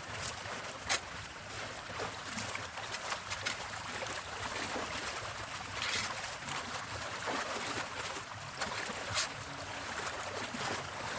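Twigs and brush crackling and snapping in a run of sharp clicks as cut branches are handled and dragged, over the steady rush of a flowing creek.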